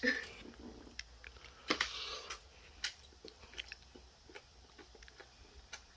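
Person chewing a hot dumpling, with small wet mouth clicks throughout and a brief louder noise just under two seconds in.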